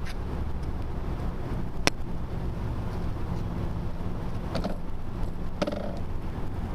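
Steady low rumble of a bicycle ride picked up by a bike-mounted camera: tyre, road and wind noise. A sharp click comes about two seconds in, and a few short rattles come near the five-second mark.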